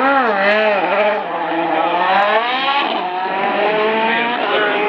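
Racing car engine revving hard, then pulling away under full throttle: its pitch swoops up and down in the first second, climbs steadily, drops at a gear change about three seconds in, and climbs again.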